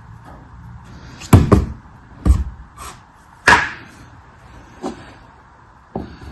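A series of sharp knocks and thumps at irregular intervals, the loudest a close pair about a second and a half in, from packages and items being handled and set down on a hard surface during unpacking.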